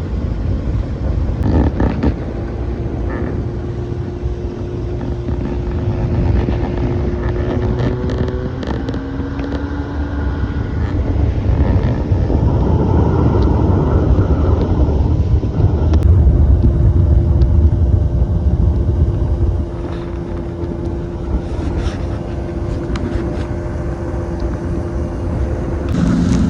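Boat motor running under way, a steady low drone whose pitch shifts a couple of times; it runs louder through the middle and eases back about twenty seconds in.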